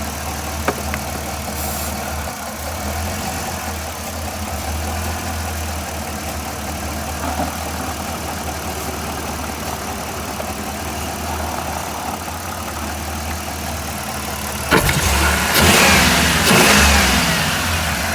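1994 Chrysler Town & Country minivan's V6 engine idling steadily. About 15 seconds in, a louder rough rushing noise rises over the idle as the Powerfoam intake cleaner goes into the engine, and the engine struggles.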